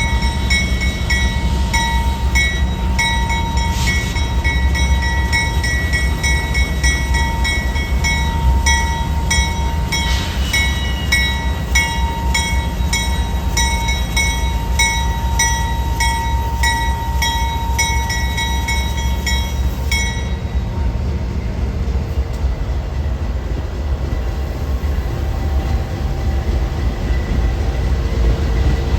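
A train passing with a steady heavy rumble. Over the first two-thirds a regular ringing strike repeats about one and a half times a second, then stops suddenly.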